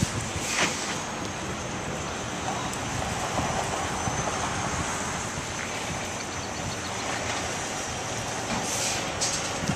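Delivery truck running, a steady rumble and hiss that holds even throughout.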